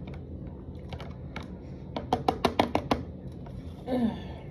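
Eating utensils clicking against a takeout food container: scattered clicks, then a quick run of about eight sharp clicks about two seconds in, followed by a short murmured voice sound near the end.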